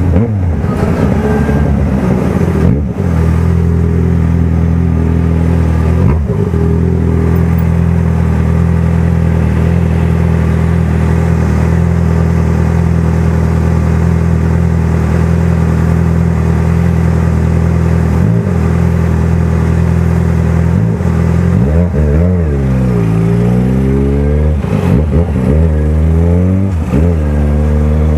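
Yamaha XJ6 600 cc inline-four motorcycle engine with a loud aftermarket exhaust, idling steadily while stopped. In the last several seconds it pulls away, the revs rising and falling repeatedly through the gear changes.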